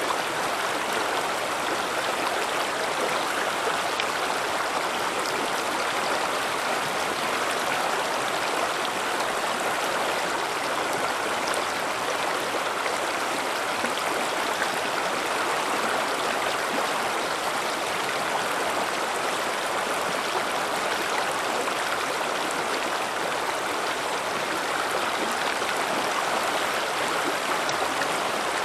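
River water running over rocks in a steady, continuous rush and babble, with small splashes scattered through it.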